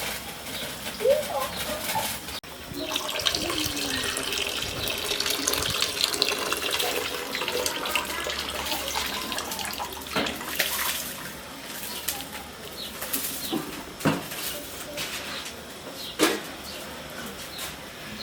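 Water poured off a pot of boiled cassava to drain it, a steady splashing for several seconds, followed by a few knocks of the pot.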